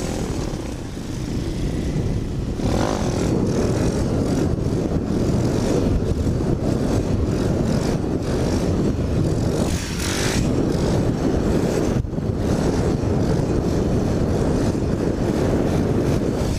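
Pit bike being ridden, its small engine running under a loud, steady rush of wind across the helmet-mounted microphone, with a few short swells in the noise.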